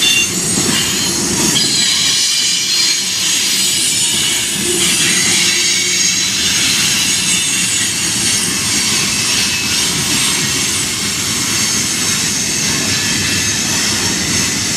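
Freight train cars rolling past with loud, high-pitched squealing from many wheels at once over the rumble of wheels on rail. It sounds like the brakes are on throughout the whole train rather than on just one or two cars.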